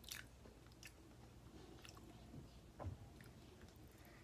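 Faint close-up chewing, with a few soft mouth clicks and a low soft thump about three seconds in.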